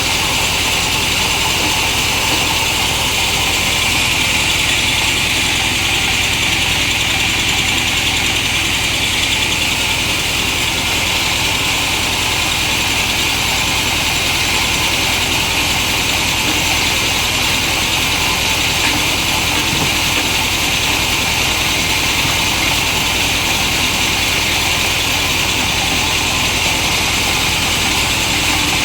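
Band sawmill running steadily, its engine driving the band blade, with a constant high hiss over the engine's even low rumble.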